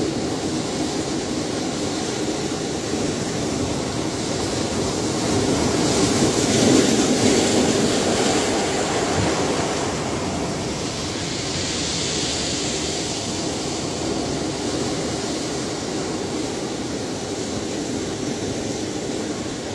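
Ocean surf: a continuous wash of breaking waves that swells to its loudest about seven seconds in, then eases back to a steady rush.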